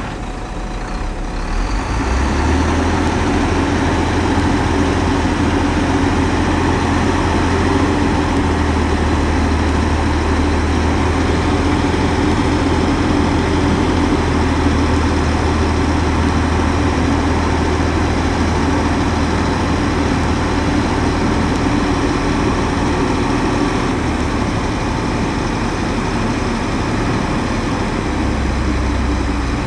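Heavy diesel engine of earthmoving machinery running steadily. It grows louder about two seconds in and eases off slightly near the end.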